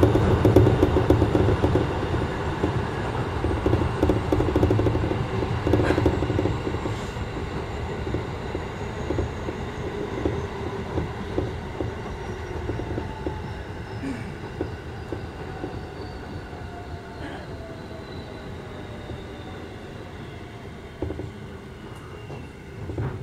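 Electric commuter train heard from inside the car, running and slowing down. Its running noise fades steadily, several faint motor whines slide down in pitch as it brakes, and a few wheel clacks sound over rail joints.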